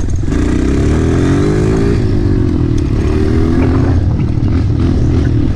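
Dirt bike engine revving as it is ridden. The pitch climbs for about two seconds, drops back, then climbs again briefly before settling.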